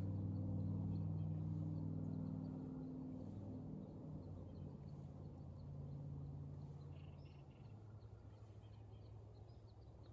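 A low, steady hum that fades gradually, with faint bird chirps over it.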